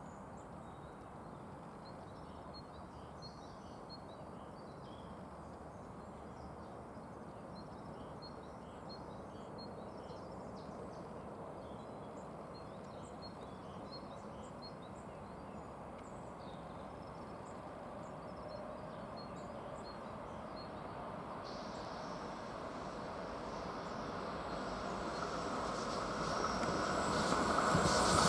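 Steady low background rumble with small birds chirping, then an approaching ICE 1 high-speed train growing steadily louder over the last several seconds, with a high hiss rising as it nears.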